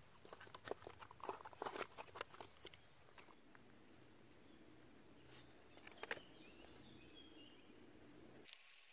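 Dry twigs and small pieces of wood crackling and clicking as they are handled and broken, in a quick run of sharp snaps for about the first three seconds, then one more click a little after halfway.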